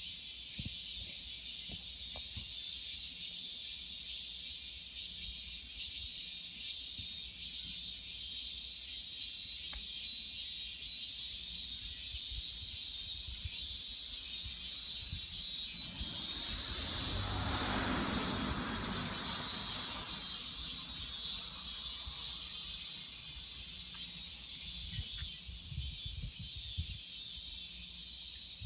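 Cicadas droning in summer heat, a steady high-pitched hiss. About midway a lower rushing noise swells up and fades away over a few seconds.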